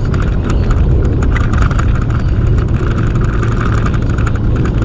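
Steady engine and road noise of a Ford F-150 pickup cruising on the highway, heard from inside the cab: a constant low hum under an even rush of tyre and wind noise.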